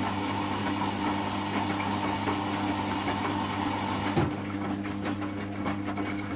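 Servis M3008B washing machine in its final rinse: a steady hum with a broad hiss of water. The hiss stops with a click about four seconds in, and the hum carries on under irregular splashing and knocking of water and clothes in the drum.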